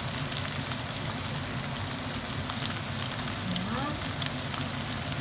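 Chicken sizzling steadily as it browns in a frying pan, with scattered small crackles of spattering fat.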